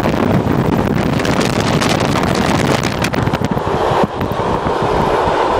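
Loud rush of wind through the open window of a moving passenger train, buffeting the microphone over the train's running noise. The sound dips briefly and changes about four seconds in.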